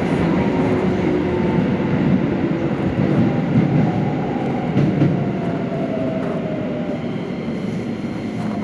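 Keikyu 1000 series electric train running, with steady wheel and track rumble. A faint motor whine falls in pitch from about four seconds in, as the train slows.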